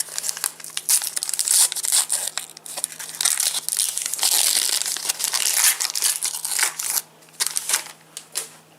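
Trading-card foil packet being torn open and its wrapper crinkled, a dense run of crackling rustles that eases off about seven seconds in.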